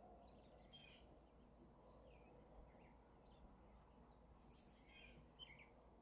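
Faint chirps of small birds: a few short, scattered calls, a cluster of them near the end.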